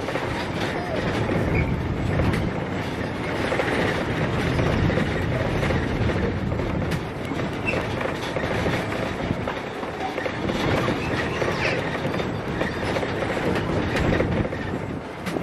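Narrow-gauge train running along the track, its wheels clattering steadily over the rails.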